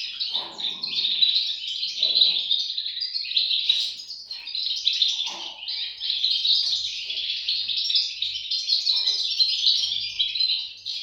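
European goldfinch chicks chirping continuously, many short high calls overlapping in a dense chatter, with a few soft low rustles now and then.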